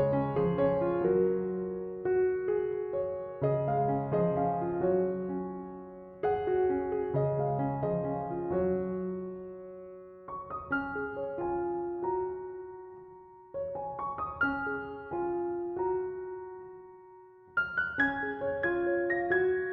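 Background piano music: a slow, gentle melody of struck notes that ring and fade, phrase by phrase, with a short pause before a new phrase near the end.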